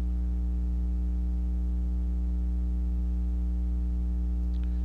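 Steady low electrical hum with a stack of fainter higher overtones: mains hum in the recording, unchanging while the narrator pauses.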